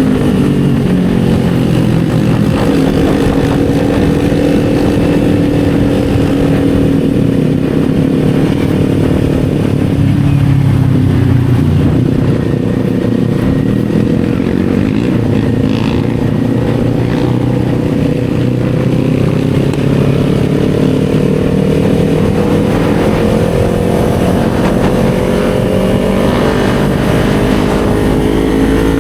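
Kawasaki Z400's parallel-twin engine running under way. Its pitch drops at the start, holds fairly steady through the middle, then rises gradually toward the end as the bike accelerates.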